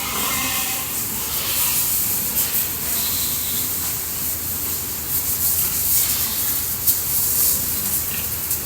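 Water from a hose spraying steadily with a continuous hiss, as in washing down pigs.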